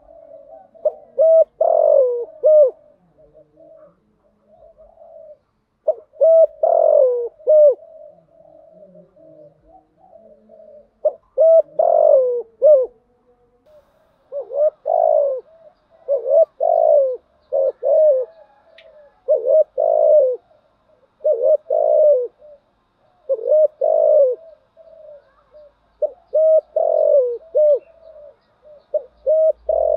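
Spotted dove cooing repeatedly: a loud phrase of a few low coo notes every two to three seconds, with fainter cooing between the phrases.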